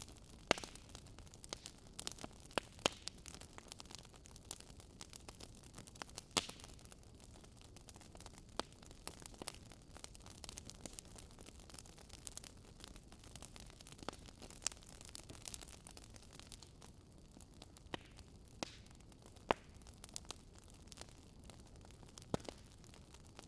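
Wood campfire burning: irregular crackles and sharp pops of the burning wood over a low steady hiss, with a few louder snaps standing out.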